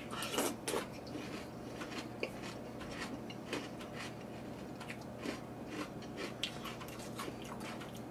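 A person chewing a mouthful of Frosted Flakes cereal in milk: a steady run of small crunches, strongest about half a second in as the bite is taken.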